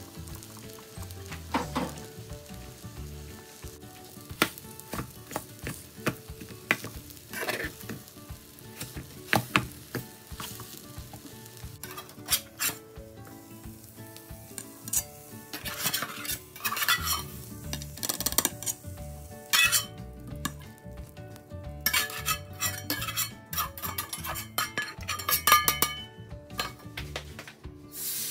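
Cabbage omelette sizzling in a metal frying pan while a spatula scrapes and knocks against the pan again and again as the omelette is cut and lifted out, the scrapes and clinks coming thicker in the second half.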